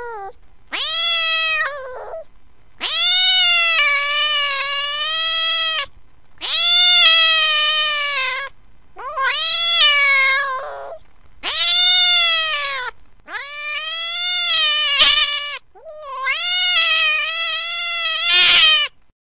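A cat meowing over and over: about seven long, drawn-out meows, each rising and then falling in pitch, with short pauses between them. A brief sharp noise comes near the end.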